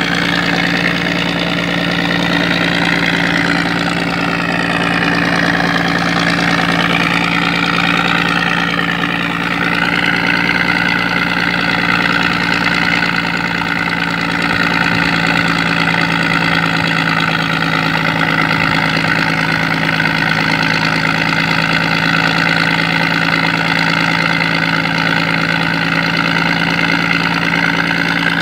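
Scania 113 11-litre straight-six diesel engine driving a sand dredge, running steadily at constant speed. Its higher tones waver during roughly the first ten seconds, then hold steady.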